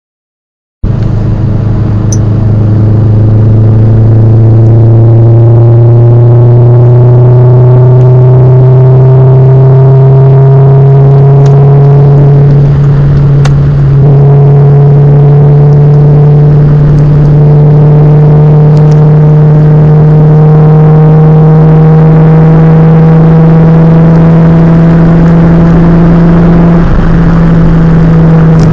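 Peugeot 206 GTI 2.0's four-cylinder engine heard through an Invidia GT300 muffler, cutting in loud about a second in. It runs with a steady drone whose pitch climbs slowly and evenly throughout as the revs build.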